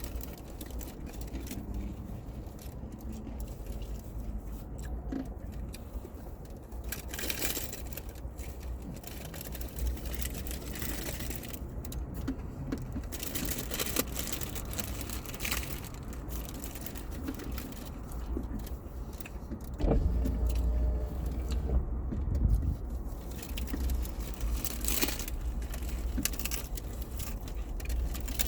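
Eating noises: short crinkles and clicks of paper and foil taco wrappers being handled, over a steady low rumble, with a louder thud-like stretch about two-thirds of the way through.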